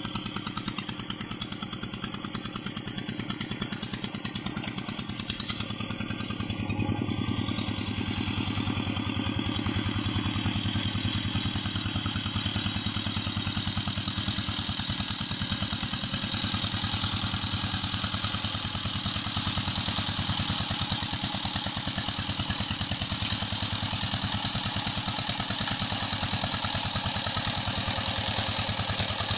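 Walking tractor's engine running steadily with a fast, even firing beat, a little louder from about seven seconds in.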